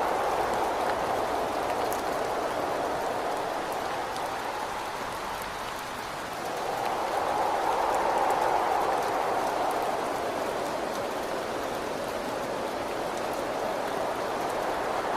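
Rain and wind: a steady patter of rain against a window under a rushing wind that swells and ebbs, strongest about halfway through.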